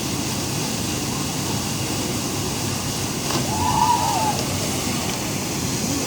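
Steady rushing of a rain-swollen waterfall, with a brief faint call about halfway through.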